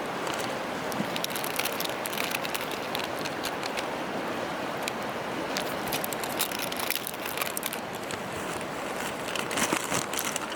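Wood campfire crackling, with irregular sharp pops that come thickest near the end, over a steady rush of flowing river water.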